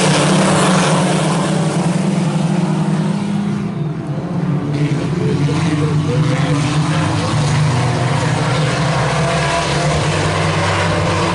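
IMCA Sport Compact race cars' engines running together in a steady drone. The level dips briefly about four seconds in.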